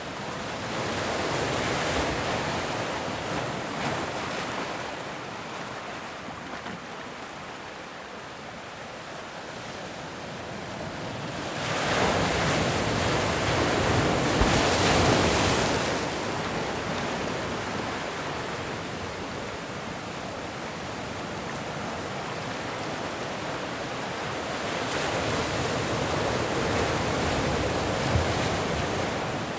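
Ocean waves breaking and washing up on a shore, in slow surges: one soon after the start, the loudest around the middle, and another near the end.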